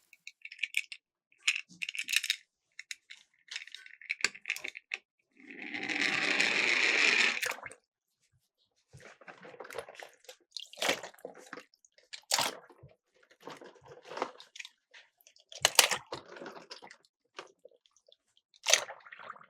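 Miniature toy cars clattering and knocking as they run down a toy slope and drop into water, in many short sharp clicks and splashes. A loud rush of noise lasts about two seconds, starting about five and a half seconds in.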